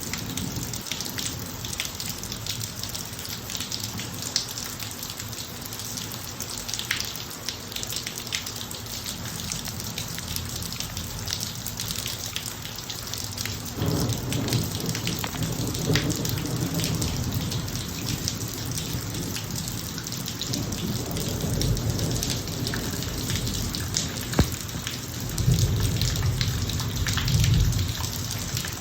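Rain falling steadily in a thunderstorm, with many drops ticking on hard surfaces. Thunder rumbles in about halfway through and swells again near the end.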